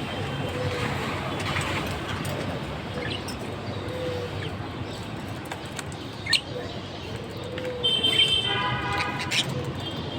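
Birds chirping and calling over a steady background noise, with a sharp chirp a little past the middle and a louder, buzzy call about eight seconds in.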